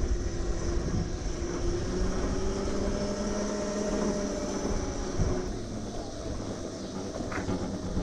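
Electric moped in motion: a thin motor whine that slowly rises and falls in pitch with speed, over steady wind rumble on the microphone, with a sharp click near the end.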